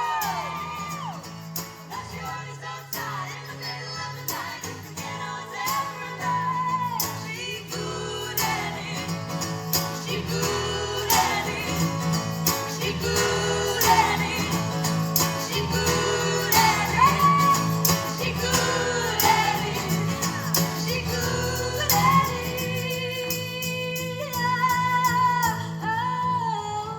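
Live band performing a song: a lead vocal sings the melody over bass, instruments and a steady beat of drum hits.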